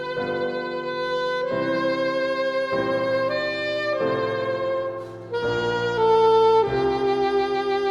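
Classical saxophone with piano accompaniment playing a melody of held notes, changing about once a second, with a short break a little past the middle.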